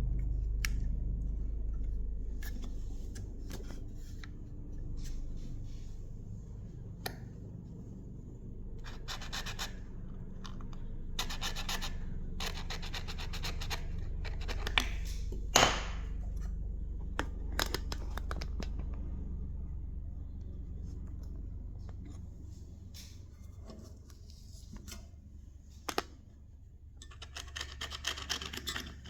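Scalpel blade scraping old, deteriorated foam surround residue off the edge of a McIntosh 6-inch car speaker cone, in intermittent groups of short, scratchy strokes. A sharp click comes about halfway through, and a low steady hum runs underneath.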